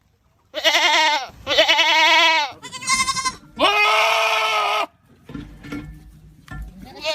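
Goats screaming: four loud, drawn-out, wavering bleats one after another, the last the longest. A quieter stretch of low noise follows, and another scream starts near the end.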